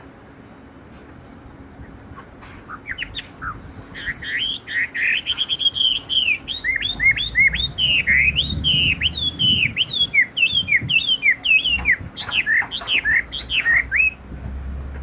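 Chinese hwamei singing a fast, loud run of varied whistled notes that slide up and down, starting about three seconds in and stopping just before the end.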